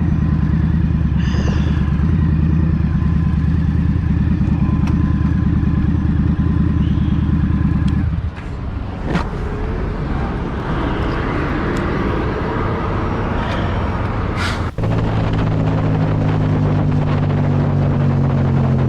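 Motorcycle engine running at a steady pitch, with wind and road noise, recorded from the bike. After an abrupt cut, another motorcycle engine holds steady and then drops in pitch as the bike slows near the end.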